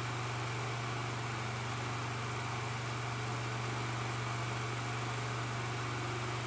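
1987 Ku Hsing 12-inch oscillating table fan running steadily: a low motor hum under an even rush of air. No bearing rattle, its motor bearings now packed with high-pressure grease.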